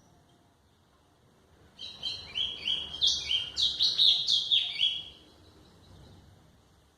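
A golinha (white-throated seedeater) singing one phrase of about three seconds: a fast run of about a dozen high, clear notes, each sweeping downward.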